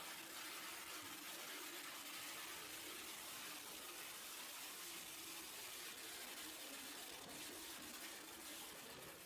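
Steady rush of wind over the microphone at riding speed, with the faint hum of a Kawasaki Ninja 400's parallel-twin engine underneath.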